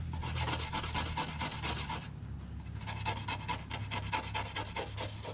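Rapid back-and-forth scrubbing strokes on a part, with a brief pause about two seconds in, over a steady low hum.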